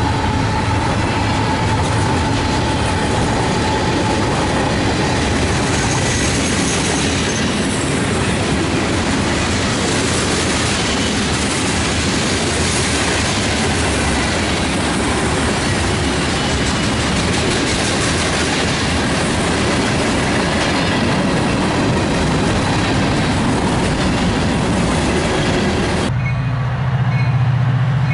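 Freight cars of a mixed freight train rolling past at speed: a loud, steady rumble of steel wheels on rail with clickety-clack, and a faint wheel squeal in the first few seconds. Near the end the noise drops suddenly as the last car passes, leaving a low steady hum.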